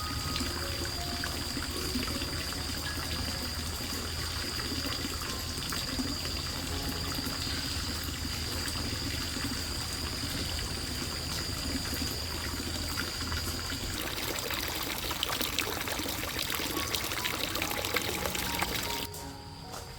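Water pouring and trickling steadily, turning more splashy about two-thirds of the way through, then cutting off suddenly near the end.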